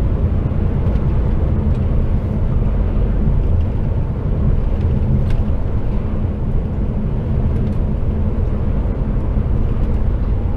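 HGV lorry pulling a container trailer, running steadily along the motorway: a constant low engine drone with road and tyre noise, heard from inside the cab.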